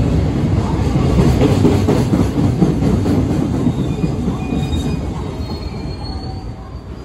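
A container freight train passes close by at speed, its wagon wheels rumbling over the rails. The sound fades steadily as the last wagon goes by about four seconds in and the train pulls away.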